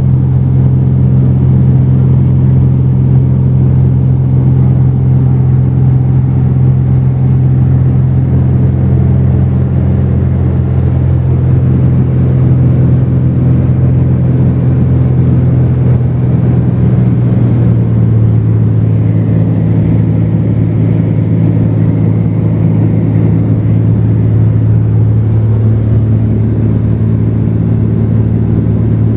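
Cessna 210's six-cylinder piston engine and propeller in flight, a loud steady drone heard inside the cabin. Its pitch drops slightly about eighteen seconds in.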